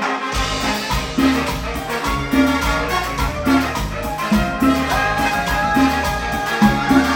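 Latin tropical dance orchestra playing an instrumental salsa-style passage, recorded live, with a strong bass line, steady percussion and sustained instrument lines above.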